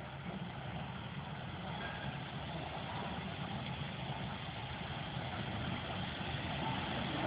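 A steady low engine rumble, slowly growing louder.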